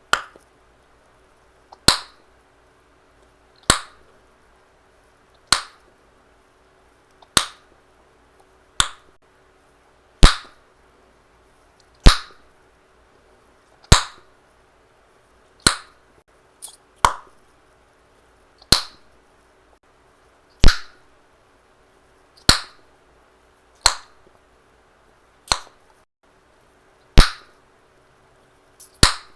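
Chewing gum snapped in the mouth: a steady run of sharp pops, one about every one and a half to two seconds, over a faint steady hum.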